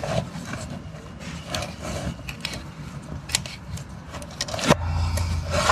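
Hands working a BMW rear air spring into its mount, giving scattered light clicks and rubbing. Near the end there is one sharp click, and a low steady hum starts after it.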